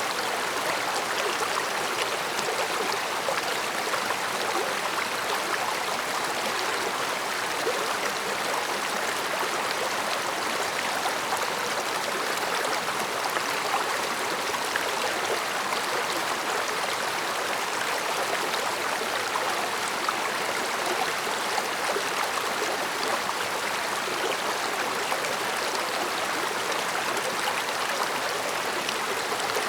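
Mountain stream flowing over rocks, a steady even babble and murmur of running water.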